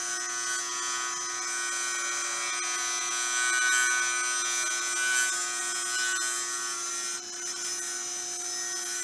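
A lathe running with a steady hum while a turning tool cuts a spinning blank of sticks cast in epoxy resin, giving a continuous rasping hiss. The cutting eases briefly about seven seconds in, then carries on.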